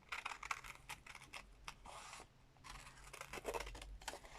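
Scissors snipping through a sheet of rub-on transfers, a run of quiet short cuts and paper rustle with a brief pause about halfway through.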